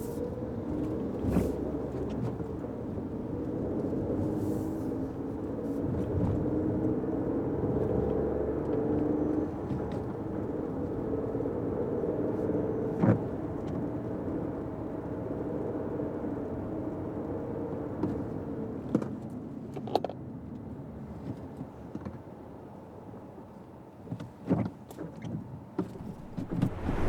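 Steady engine and road noise heard inside a moving Fiat 500X's cabin, easing off in the second half, with scattered sharp clicks and knocks that come more often near the end.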